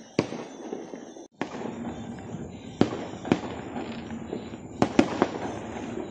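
Fireworks going off: a string of sharp, echoing bangs, about seven, with three close together near the end, over steady crackling between the blasts.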